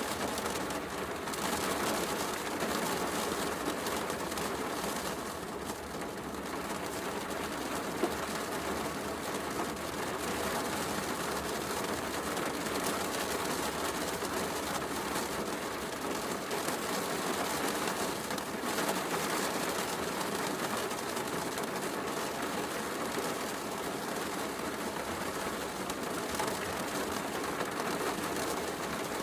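Heavy rain falling steadily, mixed with a wood fire crackling in a fireplace, with one sharper pop about eight seconds in.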